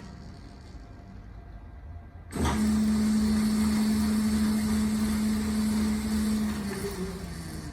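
Clausing 4901 metal lathe's motor and drive train, freshly reassembled, switching on suddenly about two seconds in and running at a steady speed with an even hum. Near the end the pitch sags a little and it winds down.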